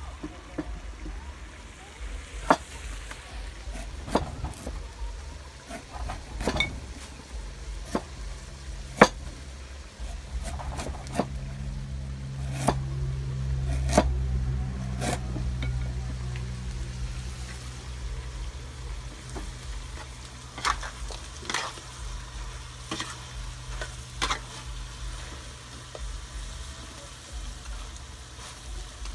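Chopped Muscovy duck sizzling in a steel wok as it is stir-fried, with the metal spatula knocking and scraping against the pan every few seconds. A low steady hum comes in about seven seconds in.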